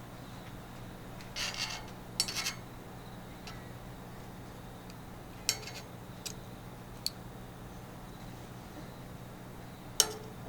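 A few light metallic clinks and short rattles of barbecue gear being handled, scattered over several seconds, the loudest near the end.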